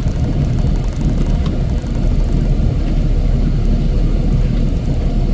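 Heavy snow removal machinery engine running steadily, a loud, even low drone.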